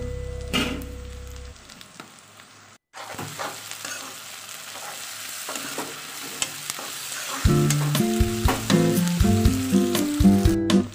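Sliced onions and garlic paste sizzling in hot oil in a kadai, with a wooden spatula stirring and scraping the pan. Background music fades out early on, and music comes back over the sizzle about seven and a half seconds in.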